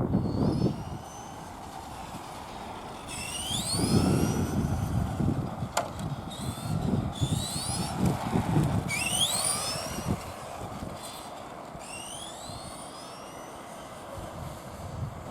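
A Tamiya radio-controlled truck's electric motor and gearbox whining, rising in pitch several times as it speeds up, over a low rumble of the truck running, with a sharp click about six seconds in.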